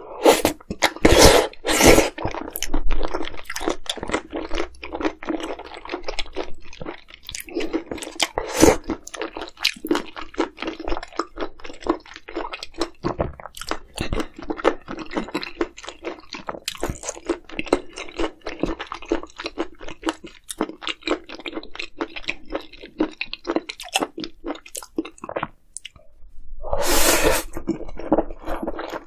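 A person chewing close to the microphone: wet, crunchy chewing with a dense run of small clicks and smacks, and louder, longer eating sounds about a second in and again near the end.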